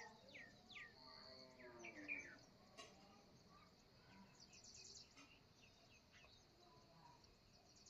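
Faint birdsong from several birds. A series of quick chirps sweeping downward comes in the first two seconds, with a short high whistle among them, and a fast high trill follows near the middle.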